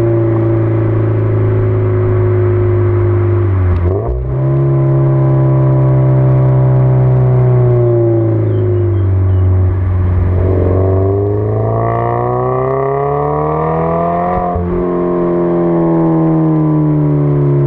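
Toyota GT86's 2.0-litre flat-four engine running through a 5Zigen aftermarket exhaust while driving. The note sags slowly, with a brief break about four seconds in. It then rises steadily under acceleration for about four seconds, breaks off briefly near the end and falls away again.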